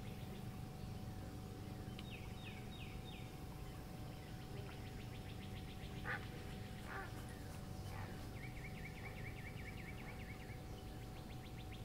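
Birds calling faintly over a marsh: a few quick falling notes about two seconds in, short single calls in the middle, the loudest about six seconds in, and a fast trill later on, over a steady low hum.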